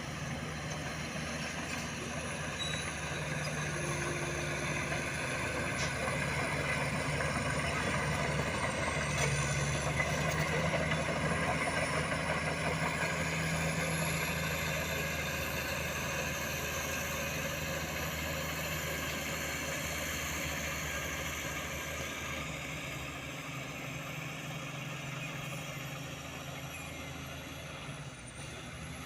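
Diesel dump truck engine running steadily, its note swelling a little partway through and easing off toward the end, with a thin high whine above it.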